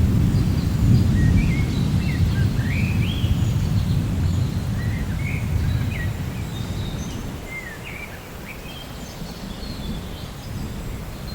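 Thunder rumbling low, loudest in the first few seconds and fading away over the next several, while birds call in short chirps and quick rising and falling whistles over a soft, even hiss of rain.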